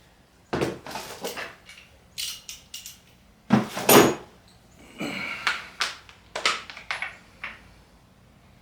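Metal clanks and clatter of tools and engine parts being handled during disassembly: a series of separate knocks and jingles, loudest in a double clank about halfway through.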